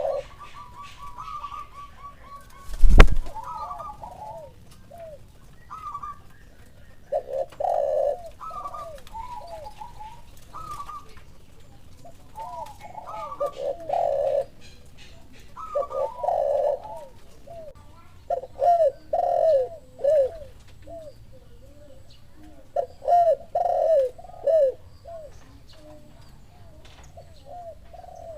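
Spotted doves cooing in repeated short phrases of a few curved notes, a lure call with another dove answering. One sharp loud knock about three seconds in.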